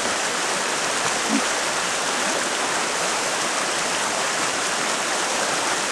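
Running water rushing steadily, an even hiss without rhythm or pauses.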